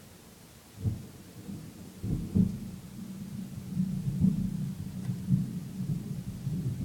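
Thunder: a sudden crack about a second in, then a low rolling rumble that swells and fades unevenly and keeps going.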